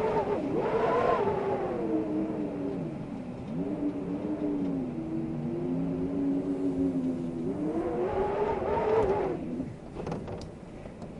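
Howling wind: a moaning tone that slides up and down over a rush of noise. It swells near the start and again about eight seconds in, settles lower in between, and dies down near the end.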